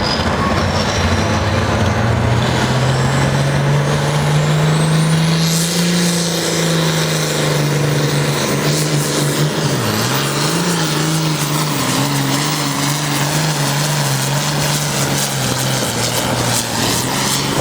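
Pulling truck or tractor engine running flat out under load, its pitch climbing over the first several seconds and then holding steady, with a brief dip about ten seconds in. A high whine rises in pitch alongside it at the start.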